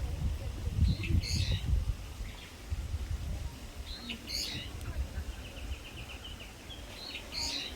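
A songbird calling from the trees, repeating one short call about every three seconds, with a rapid trill in between. A low rumble sits on the microphone through the first two seconds.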